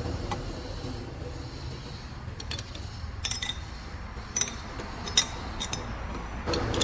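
Scattered light metallic clinks, like metal parts or tools being handled, over a low steady hum. The sharpest clink comes about five seconds in, and a steady machine tone sets in near the end.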